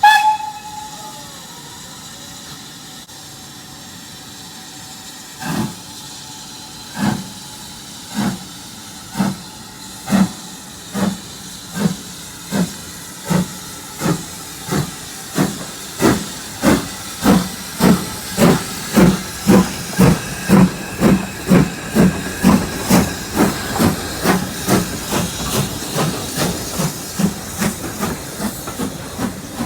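A steam locomotive gives a short whistle blast, then starts pulling away: over a steady hiss of steam, its exhaust chuffs begin about five seconds in, slow at first, about one every second and a half, and quicken steadily to around three a second as the train gathers speed.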